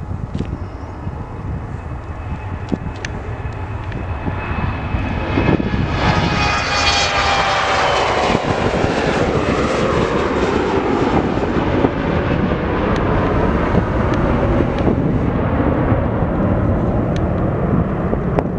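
Jet airliner's engines growing louder as it passes close by, their whine falling in pitch as it goes past, then a steady, loud roar.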